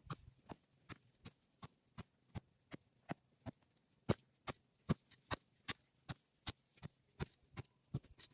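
A steady series of sharp knocks or taps, about two and a half a second, some louder than others.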